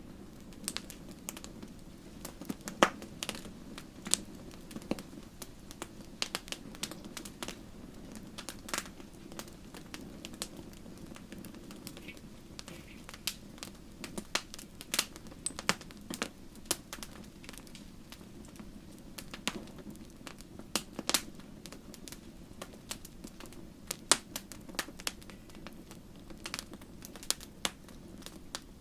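Wood fire crackling in a fireplace: irregular sharp pops and snaps, at times several a second, over the steady low sound of the flames.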